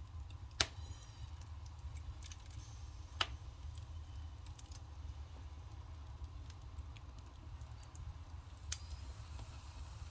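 Burning firewood crackling with scattered small clicks and three sharp pops, over a steady low rumble.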